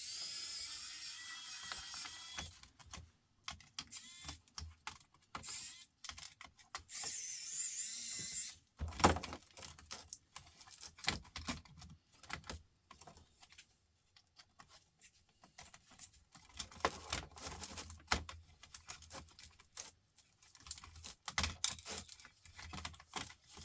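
Laptop teardown handling noise: many light plastic clicks and knocks as small parts of the laptop are worked loose and moved about. There are two stretches of high scraping or rustling, one at the start and one about seven seconds in.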